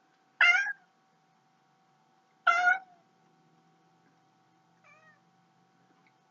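Domestic cat meowing: two short meows about two seconds apart, then a much fainter third one near the end.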